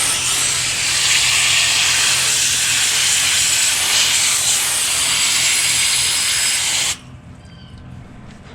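Garden hose spraying water onto an air conditioner condenser's coil fins, a loud steady hiss that cuts off suddenly about seven seconds in.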